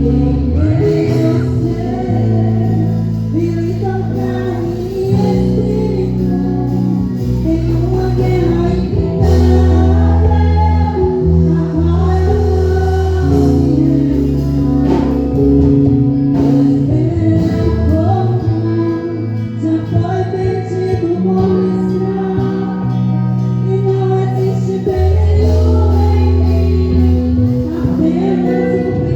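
Gospel worship music: singing over sustained instrumental chords and bass.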